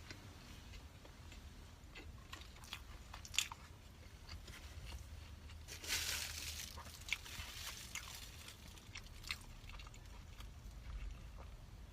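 Close-miked eating: a person biting and chewing food, with scattered small mouth clicks, a sharp click about three and a half seconds in and a louder crunch about six seconds in.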